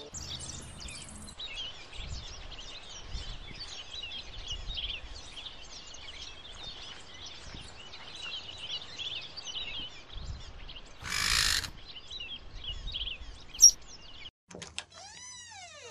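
Many small birds chirping over a steady background, with a short burst of hiss a little after eleven seconds in and a sharp click shortly after. Near the end a door creaks open, its creak rising and then falling in pitch.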